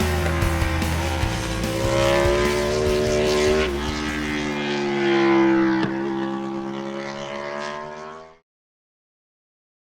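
Yamaha YZR-M1 MotoGP bike's engine running at high revs, its pitch dipping and rising slowly, over the tail of background music. It fades out about eight seconds in.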